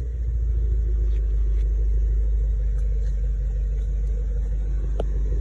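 Ford Mustang Boss 302's 5.0-litre V8 idling through a Borla ATAK exhaust with a steady, deep rumble, the pitch holding level with no revs.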